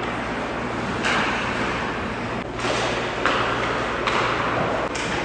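Ice hockey play: skate blades scraping the ice in several short bursts, with one sharp knock of stick or puck about three seconds in, over a steady low arena hum.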